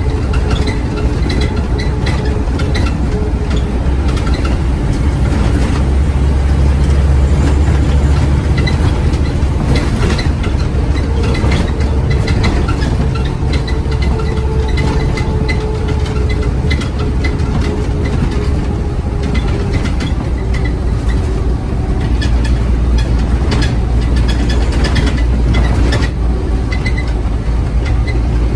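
Scania Omnicity bus's diesel engine heard from on board, working under load, swelling and easing as it pulls away and shifts, with many small rattles from the bodywork and fittings.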